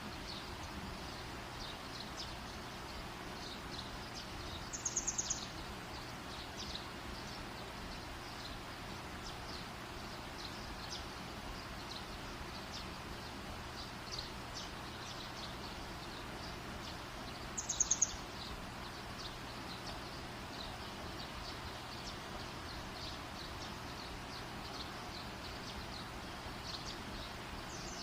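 Campfire burning with a steady hiss and many faint, light crackles. Two short, high, rapid chirping bursts stand out, about five and eighteen seconds in.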